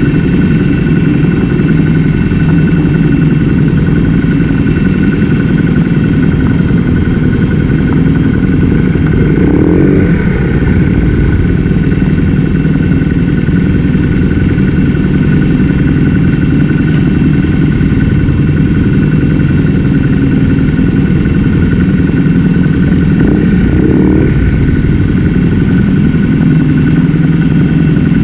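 Motorcycle engine running steadily at low speed, picked up by a handlebar-mounted camera, with two brief rises in engine note about ten seconds in and near the end.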